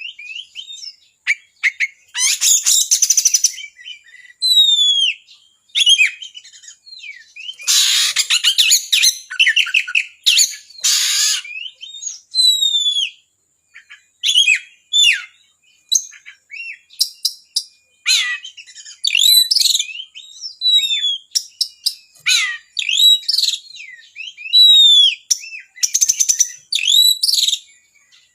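Oriental magpie-robin (kacer) in full song: a loud, varied run of sharp whistled notes and quick falling slurs, broken by several harsh rattling phrases. It is the full, non-stop 'gacor' song, packed with phrases borrowed from other birds.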